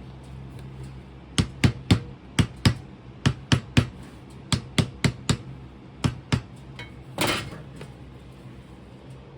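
About fifteen sharp taps in quick groups of two or three, rapping to loosen a casting pattern from its mould, then a short rattle near the end. A steady low hum runs underneath.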